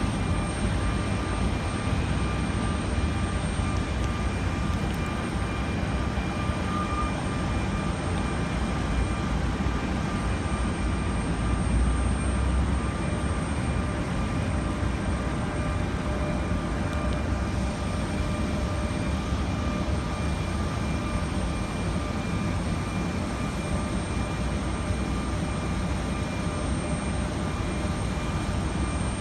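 Airplane engines running at takeoff power: a steady, continuous rumble with a thin high whine over it.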